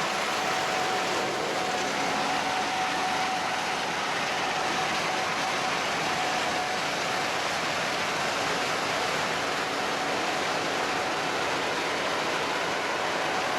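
Gleaner S67 combine running steadily while harvesting soybeans: an even machinery rush with a faint steady whine.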